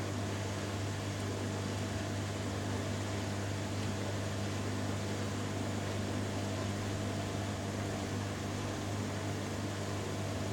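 Two front-loading washing machines, a Hoover Dynamic Next and a Beko Pro AquaTech, running their spin cycles together: a steady motor hum with drum noise, and no change in speed.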